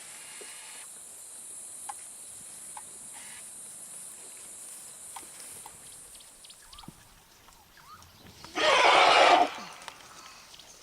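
A single loud, noisy animal call about a second long, a little past the middle, over a steady high-pitched buzz.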